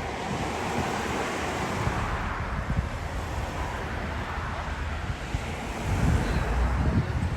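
Wind rumbling on the microphone over steady road traffic noise, swelling louder about six seconds in.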